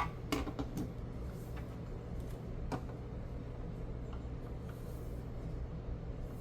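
A few faint, sparse clicks of plastic Lego pieces being handled and fitted, over a steady low hum.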